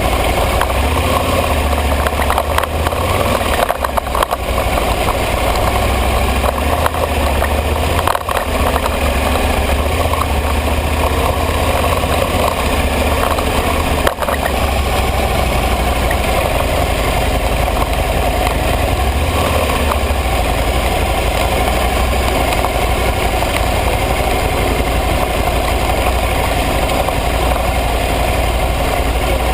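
Aprilia ETV 1000 Caponord's V-twin engine running steadily, under a constant low rumble.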